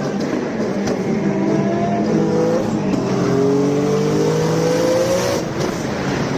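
Twin-turbo Nissan 370Z's 3.7-litre VQ V6 under full throttle in a race pull, its note climbing through the gears. The pitch drops at an upshift about two and a half seconds in, climbs again, and breaks off near the end.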